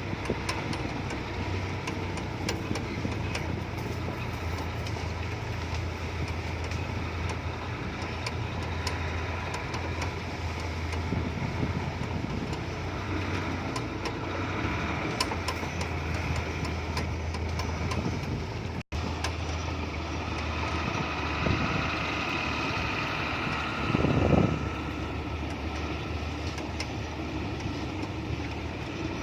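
Hino F18 ten-wheeler truck's diesel engine running steadily at a low note, carrying a load of sugarcane, with a short louder surge about three-quarters of the way through.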